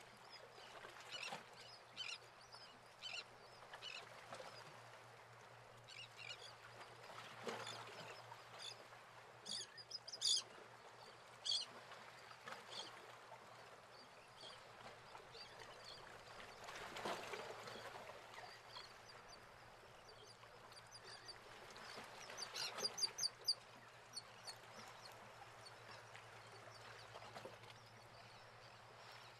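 Birds chirping in short, scattered calls over a faint steady hiss and low hum, with a quick run of calls near the end.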